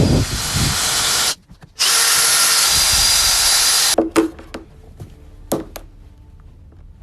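A power tool running at full speed in two bursts, one about a second and a half long, then after a short break another of about two seconds that cuts off suddenly. Scattered clicks and knocks follow.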